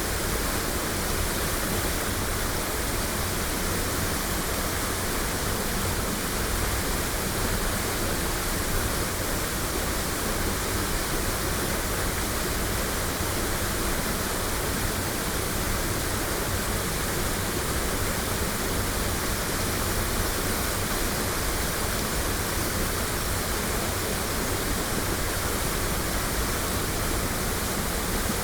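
Waterfall's water pouring and splashing, recorded binaurally: a steady, even rush with no breaks or separate events.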